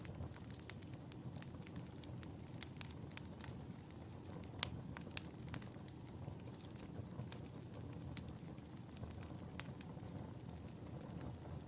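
Wood fire crackling in a fireplace: a steady low hiss of burning with frequent sharp, irregular pops, the loudest about four and a half seconds in.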